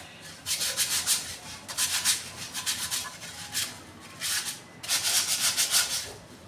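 Sandpaper rubbed by hand over a water pump part to clean off burnt, blackened material: quick back-and-forth strokes in runs with short pauses between them.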